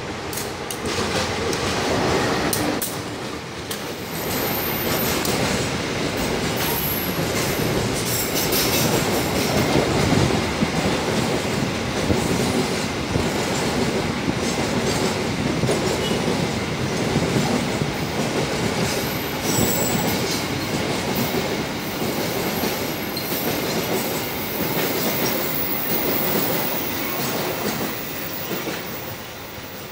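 Diesel-hauled freight train of container and flat wagons rolling past close by, wheels clattering over the rail joints. The noise dies away near the end as the last wagon goes by.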